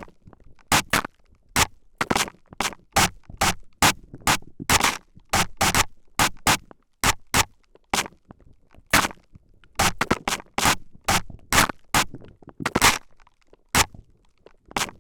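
Spray bottle spritzing in quick, short hissing bursts right at the microphone, about two a second at an uneven rhythm, with an occasional longer spray.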